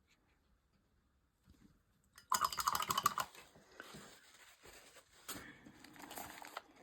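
Near silence, then about two seconds in a sudden burst of rapid small clicks and rattling, followed by lighter rustling and tapping: art supplies being handled on the work table.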